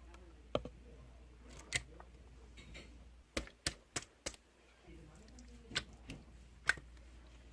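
Slime being squeezed and pressed by hand, giving sharp clicks and pops of trapped air bursting, scattered through with a quick run of four in a row a little past the middle.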